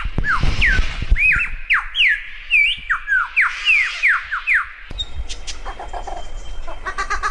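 A bird calling a quick run of about a dozen sharp whistled notes, each sliding down in pitch, then switching abruptly about five seconds in to clicks and, near the end, a buzzy pulsing chatter. The bird is presented as one that makes a great many different sounds, a mimic.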